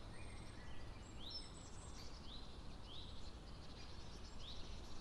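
Faint outdoor ambience of small birds chirping. One bird repeats a short rising call about once a second over a steady low background rumble.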